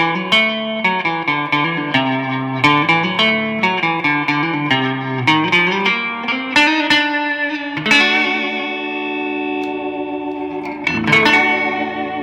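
Electric guitar played through an amp and a Fender Dimension IV Sound Expander switched down to straight reverb: quickly picked single-note runs with sliding notes, then a chord left ringing from about two-thirds of the way in and a fresh strum near the end.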